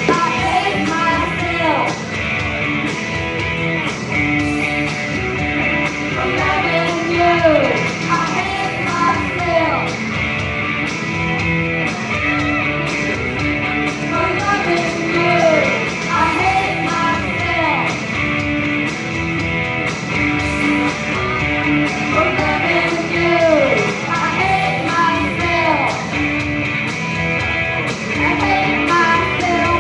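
Rock music playing, with electric guitar bending notes down over a steady beat.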